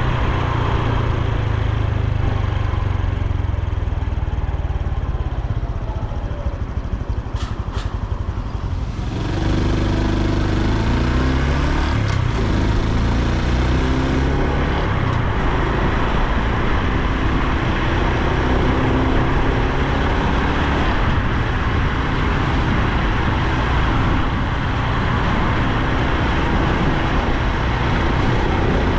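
Honda Super Cub C125's air-cooled single-cylinder engine and exhaust while riding, with wind and road noise. The engine eases off about six seconds in, then pulls away again about nine seconds in, its pitch rising and stepping as it shifts up.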